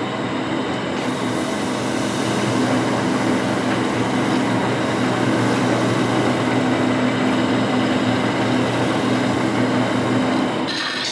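Wood lathe running steadily while a shop paper towel is held against the spinning oak mallet to polish in the compound: a steady motor hum under an even hiss of friction. The sound changes near the end.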